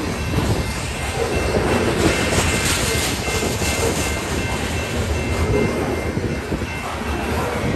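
Covered hopper cars of a freight train rolling past, with a steady rumble of wheels on rail and clattering over the joints. A faint repeating high ding runs under it, the railroad crossing bell.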